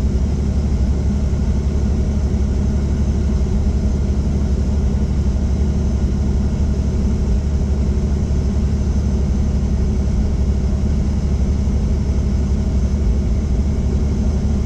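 Helicopter in flight: a steady, unchanging low drone of engine and rotor, made up of many closely spaced low tones with a fainter hiss above.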